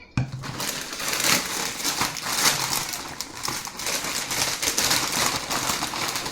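Close-up crunching of tortilla chips being chewed, an irregular crackly crunch.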